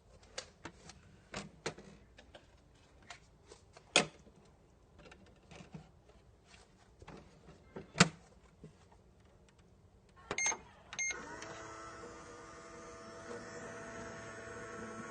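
Pink Just Like Home toy microwave: plastic clicks and knocks as its door and buttons are worked, then two short electronic beeps, after which it starts a steady electronic hum, its 'cooking' sound.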